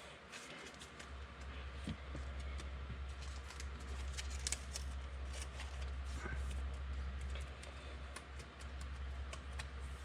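Faint scattered clicks and light taps from hands handling small objects, over a steady low hum.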